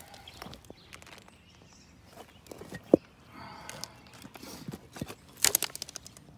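Footsteps picking across a pond bank: irregular scuffs and taps, one sharp click about three seconds in and a quick cluster of louder steps near the end.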